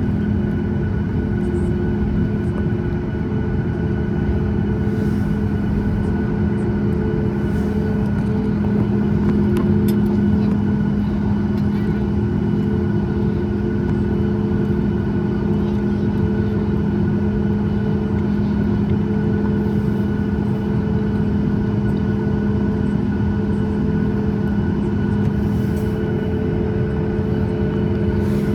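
Boeing 737 MAX 8 jet engines (CFM LEAP-1B) running at a steady setting: a constant hum with several held tones over a low rumble, with no change in pitch or loudness.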